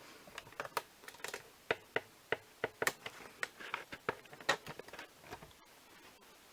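Light, irregular clicks and taps of PCIe power cables and their plastic connectors being handled and routed through a PC case.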